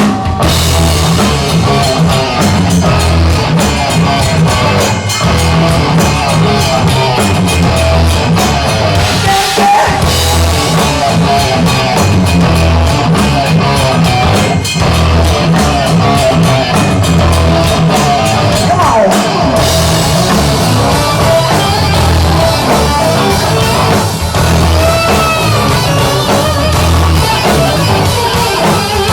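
Live hard rock band playing loudly: drum kit, bass and distorted electric guitar in a steady driving groove.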